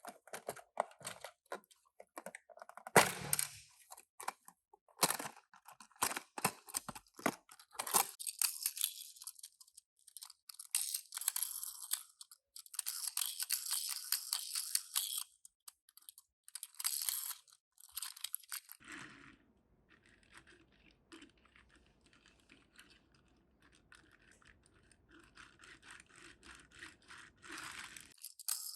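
Toy car packaging handled and opened by hand: crinkling, tearing and sharp clicks of cardboard and plastic. The handling turns quieter and sparser about two-thirds of the way in, over a faint low hum, and picks up again just before the end.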